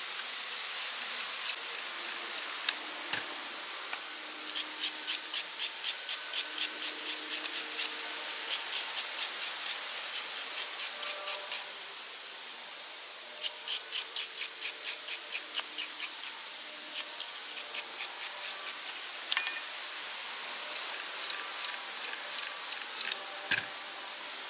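Rhythmic back-and-forth hand strokes of something abrasive rubbing on a hard surface, as in hand sanding or scraping a part, about three to four strokes a second in two runs with a short pause between, then a few scattered clicks, over a steady hiss.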